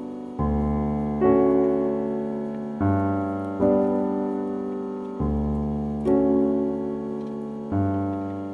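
Background piano music: slow, gentle chords struck about every second and a half, each left to ring and fade.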